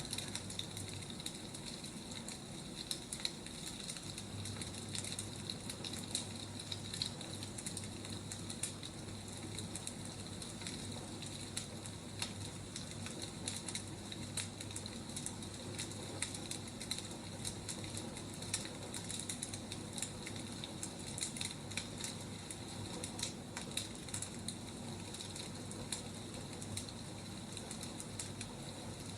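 Wood fire crackling: a steady hiss with many irregular sharp pops and snaps. A low steady hum sits underneath, growing stronger about four seconds in.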